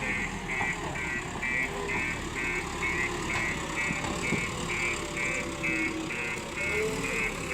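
A 74 hp vehicle engine running steadily, with a high electronic beep repeating about twice a second over it.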